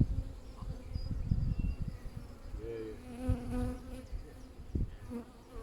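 Honeybees buzzing around an open hive, with one bee's buzz passing close to the microphone for about a second around three seconds in. Low rumbling on the microphone underneath.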